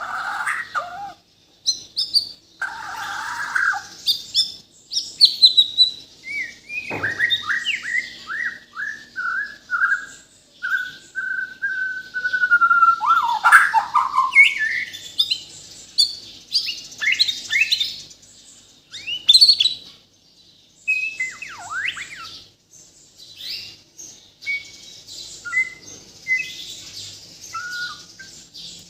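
White-rumped shama (murai batu) of the Bornean strain singing a long, varied song of whistles, trills and quick chips, packed with many different phrases. The middle of the song has a run of repeated falling notes that ends in a loud burst.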